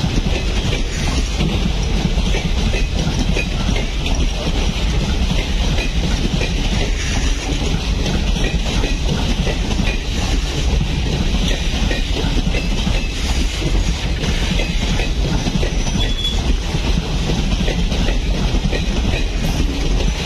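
Passenger train coaches rolling slowly past on the adjacent track: a steady rumble and clatter of steel wheels on the rails.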